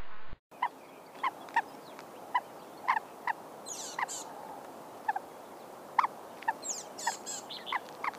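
Francolin-type gamebirds giving short, soft clucking notes every half second or so while they forage. Thin high chirps from small birds come in twice in the background. A brief steady sound cuts off right at the start.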